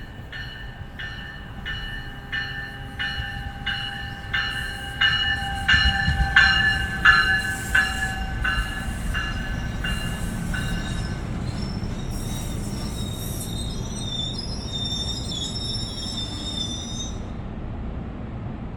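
An NJ Transit train passing with its bell ringing, about three strokes every two seconds, over a rumble of steel wheels that is loudest near the middle. The bell stops about eleven seconds in and gives way to high, wavering wheel squeal for a few seconds.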